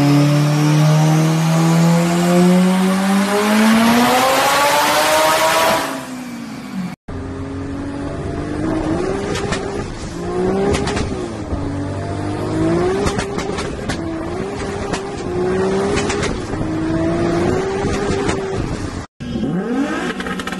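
Turbocharged car engine revving, heard from inside the cabin, its pitch climbing steadily for about six seconds. Then another turbo car engine revving up and falling back over and over while driving, with sharp pops from the exhaust typical of anti-lag and backfire.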